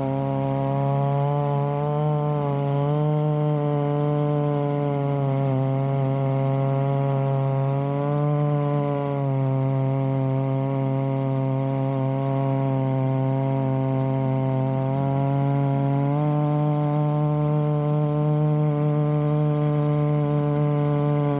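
Two-stroke chainsaw on a chainsaw mill running steadily at high revs while ripping a log. Its pitch sags slightly and recovers several times as the load varies through the cut.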